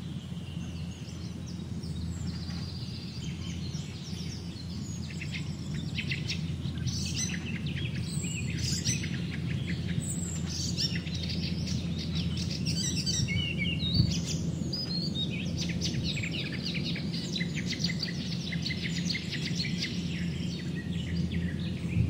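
Rapid, high-pitched bird chirping and trilling in runs of quickly repeated notes, starting about two seconds in, over a steady low background rumble.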